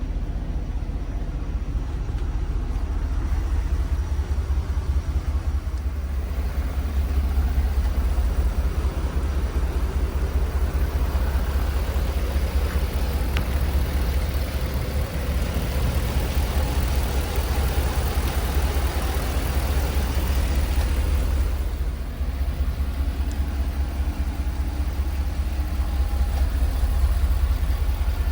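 Ford 7.3-litre gas V8 of a Ford F650 truck running with a steady low rumble, getting somewhat fuller from about 6 s in until about 22 s in.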